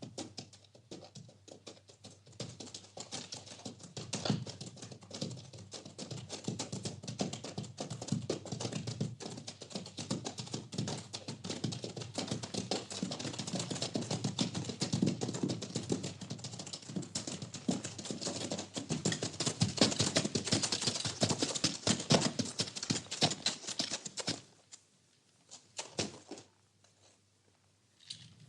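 Horse stable sounds: dense, close, irregular rustling and crackling of hay. It stops about three-quarters of the way through, leaving only a few soft knocks.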